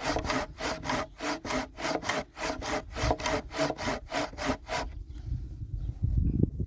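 Hand saw cutting through wood in quick, even strokes, about four a second, stopping a little before five seconds in. A low rumble follows near the end.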